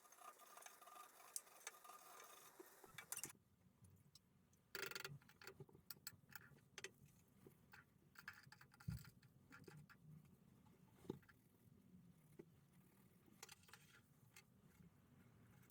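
Faint, scattered small clicks and taps of handling. A soft hiss covers the first three seconds and cuts off suddenly.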